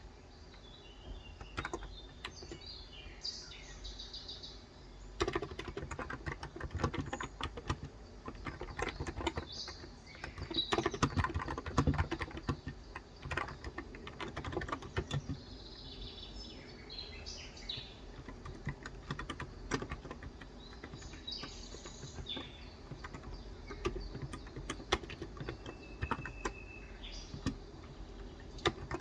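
Typing on a Cox Endeavor electro-capacitive (Topre-style) tenkeyless keyboard with 35 g switches: soft, muted keystrokes in uneven bursts, starting about five seconds in. Birds chirp in the background throughout, with a short whistled note near the end.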